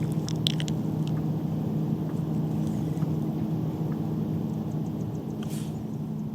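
A steady low mechanical hum with several held tones. A few brief high clicks come near the start and again about five and a half seconds in.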